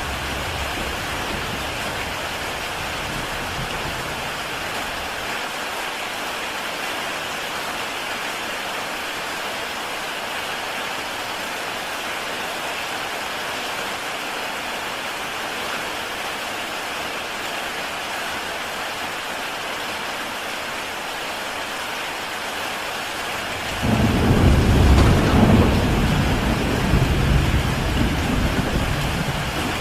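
Heavy rain falling steadily on a tile roof, an even hiss. A low rumble dies away in the first few seconds. About 24 seconds in, a loud, deep rumble of thunder breaks in suddenly and fades over several seconds.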